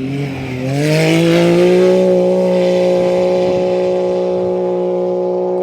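A rally vehicle's engine accelerating hard: its pitch climbs over about two seconds, then holds steady at high revs.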